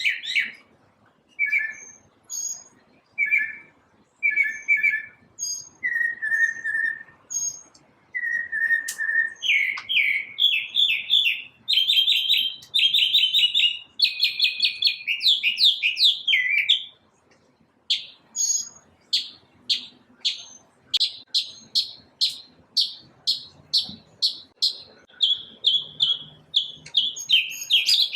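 A single bird singing a varied, continuous song: short paired notes at first, then fast rattling trills, then a long run of quick repeated chirps about two a second.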